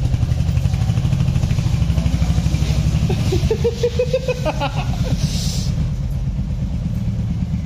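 Royal Enfield Hunter 350's single-cylinder 350 cc engine running with a steady low beat as the bike is ridden off with two people aboard.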